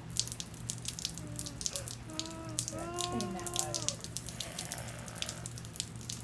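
Rain pattering and dripping in quick irregular drops, with a young child's short babbling vocalisation about two to three seconds in.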